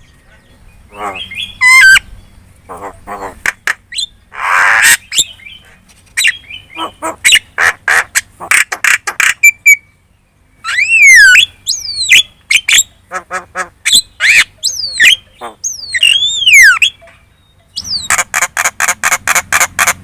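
Javan myna singing a chattering song: harsh squawks, fast series of clicking notes and arching whistles, with a brief pause in the middle and a quick run of repeated notes near the end.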